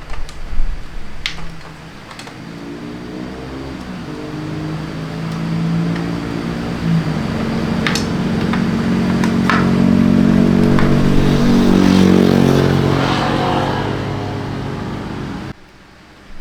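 A small engine running, slowly rising in pitch and loudness and then easing off, cutting out suddenly near the end, with a few sharp metallic clicks along the way.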